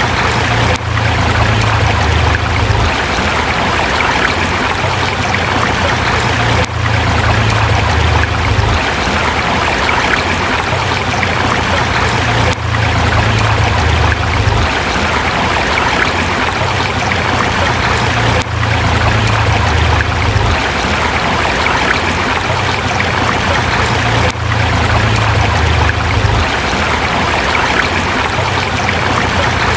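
A forest river running steadily over rocks, a constant rush of water with a brief dip about every six seconds.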